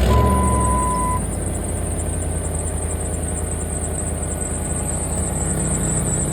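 Old pickup truck's engine just after a cold start, running at a steady idle. A steady electronic beep sounds for about the first second.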